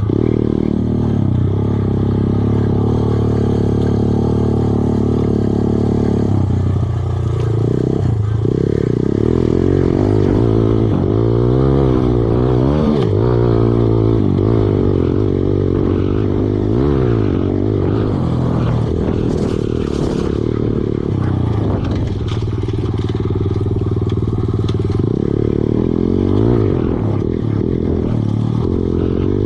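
Kawasaki KLX110 dirt bike's small single-cylinder four-stroke engine running while ridden, its pitch rising and falling again and again as the throttle is worked, with a run of quick revs around the middle.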